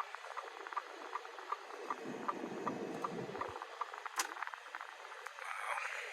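Turn-signal relay ticking in the F-150's cabin, a steady tick-tock about three times a second, over a low cabin hum, with a brief low rumble around the middle and a single sharper click a little after.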